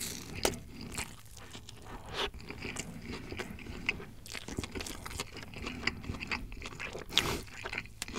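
Close-miked chewing of a mouthful of lettuce-filled beef burger: soft, irregular crunching and crackling, with a few louder crunches, the loudest about seven seconds in.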